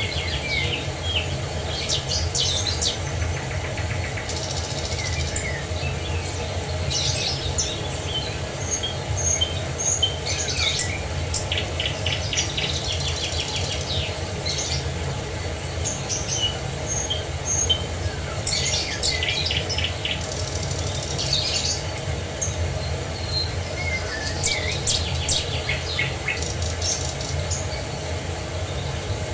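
Several songbirds chirping, trilling and calling in short phrases over a steady low rush of falling water.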